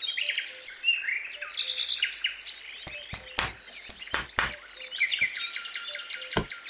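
Birds chirping and trilling in quick, overlapping calls, with a few sharp clicks in the middle and near the end.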